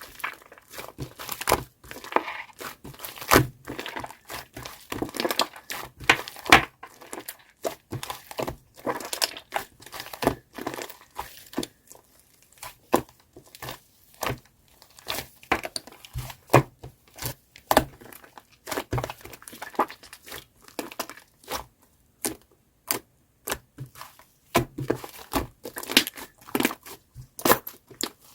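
Shaving-foam slime being squished and worked by hand, giving dense, irregular crackling pops and clicks that thin out briefly twice.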